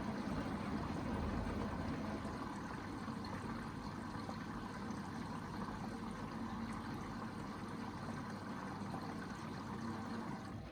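Hoover VHD 9163 ZI washing machine in its first rinse: a steady sound of water running and sloshing inside the drum.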